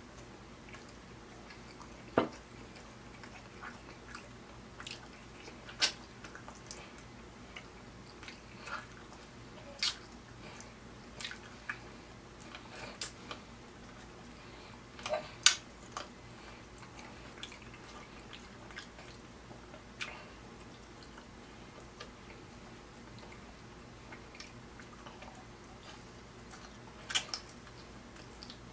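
Close-up eating sounds: a mouth chewing pieces of ribeye steak, with scattered sharp wet smacks and clicks of lips and sucked fingers coming irregularly a second or several apart.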